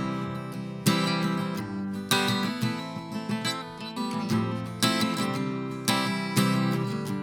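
Acoustic guitar strummed, accented chords struck about once a second and ringing out between them, with no singing.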